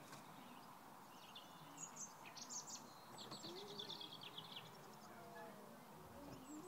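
Near silence outdoors with birds singing: a few high chirps about two seconds in, then a rapid trill of repeated notes a little after three seconds.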